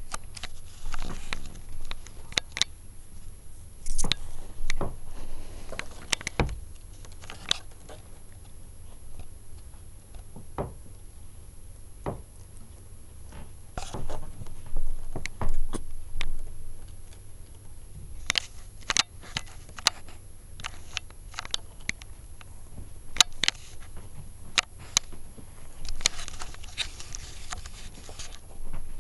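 Kittens moving about: irregular light taps, clicks and scrapes, with a few sharper knocks here and there.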